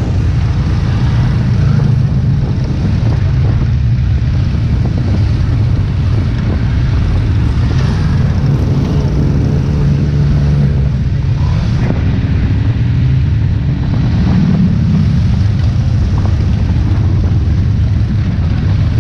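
Motorcycle engines rumbling at low speed in a slow-moving column of bikes. About three-quarters of the way through, an engine's pitch rises and falls briefly.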